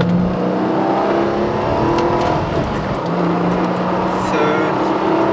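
Sports car engine heard from inside the cabin under hard acceleration on a race track. The revs climb, fall once about halfway through at a gear change, then climb again.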